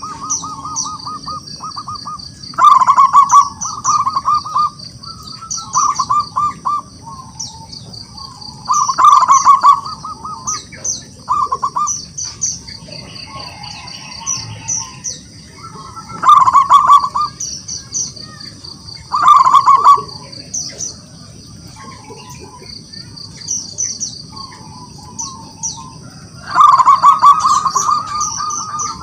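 Zebra dove cooing: bursts of rapid staccato coos every few seconds, its challenge call meant to draw a rival to answer. High chirping carries on in the background.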